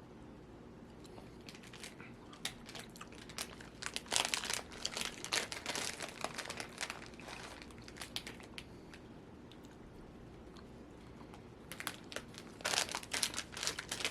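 Plastic Nerds Gummy Clusters share pouch crinkling as it is handled, in two spells of crackling: a longer one through the first half and another near the end.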